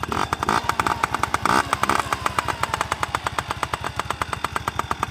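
Single-cylinder dirt bike engine idling with a rapid, even popping.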